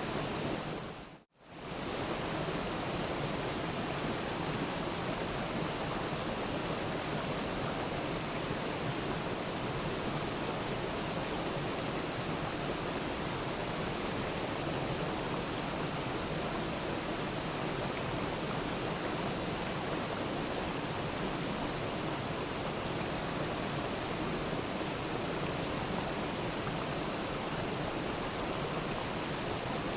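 Waterfall rushing steadily. About a second in it fades briefly to silence and comes straight back.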